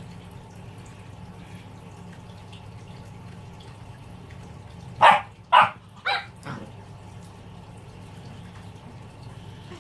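A puppy barking three times in quick succession about five seconds in, with a fainter fourth bark just after, over a steady low hum.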